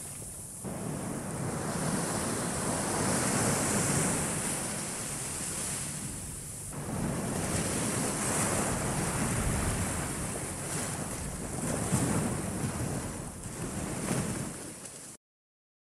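Small waves breaking on a beach: a steady rush of surf that swells as each wave comes in, about every six seconds. It cuts off suddenly near the end.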